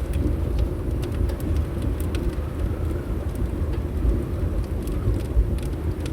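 Wood fire crackling in a fireplace: scattered sharp pops and ticks over a steady low rumble of wind.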